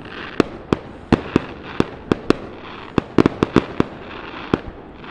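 Aerial fireworks display: about a dozen sharp bangs and cracks at irregular intervals, with a quick cluster of them about three seconds in.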